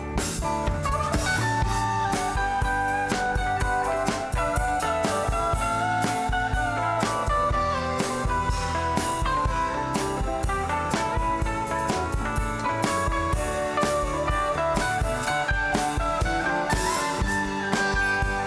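Live rock band playing an instrumental passage: a gliding guitar melody over a drum kit's steady beat.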